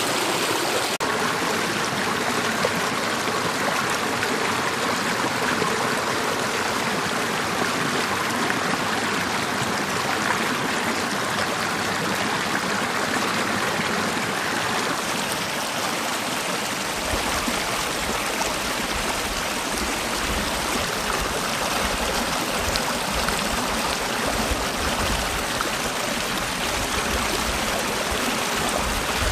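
Mountain valley stream flowing, a steady, even rush of water. A low rumble joins about halfway through.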